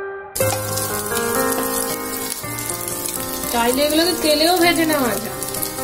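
Egg kabab patties sizzling in a little oil on a flat tawa, a steady frying hiss that starts about a third of a second in. Background music plays over it, with a voice singing a gliding line for a couple of seconds in the middle.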